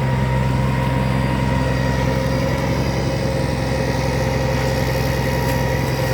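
Heavy truck engine idling with a steady low drone that does not change.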